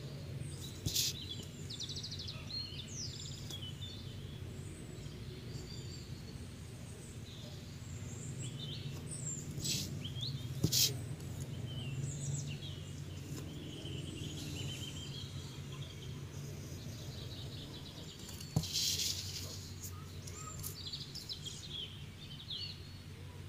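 Small birds chirping in short high calls over a steady low hum, with a few sharp taps scattered through.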